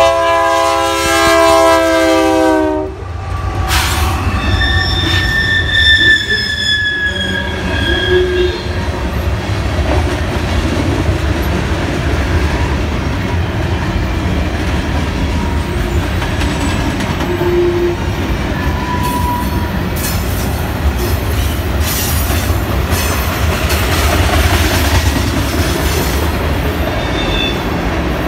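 A BNSF freight locomotive's multi-note air horn sounds for about three seconds as it passes. Then the freight cars roll by on the curve with a steady low rumble, high wheel-flange squeal from about four to eight seconds, and wheels clacking over the rail joints.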